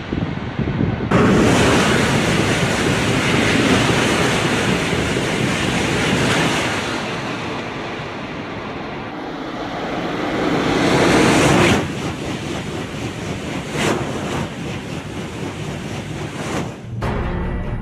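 High-speed train running at speed: a loud, even rushing noise that starts suddenly about a second in, swells again and cuts off abruptly near the middle, then carries on more weakly.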